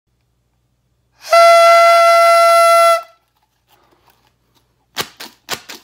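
A single steady, buzzy horn-like note held for nearly two seconds, followed near the end by a quick run of sharp clicks or taps.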